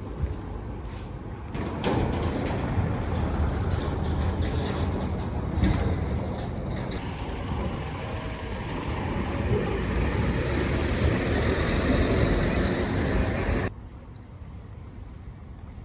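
Street traffic: a heavy vehicle's engine running close by, which stops abruptly near the end, leaving a quieter background.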